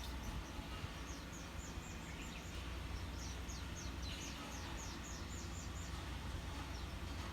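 A small bird calling in two quick runs of short, high notes, each sliding downward, about four a second, over a steady low background rumble.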